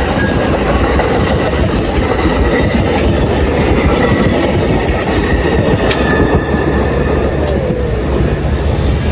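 A train passing close by: a loud, steady rumble of wheels on rail, with faint high wheel squeal and a few sharp clicks.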